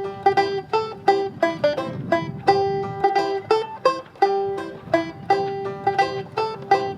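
Original background music on a 1925 Oriole tenor banjo: a quick, bright picked tune with several notes a second.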